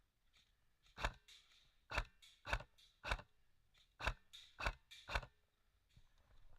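Seven sharp, separate snaps at irregular intervals, about half a second to a second apart, with quiet between them.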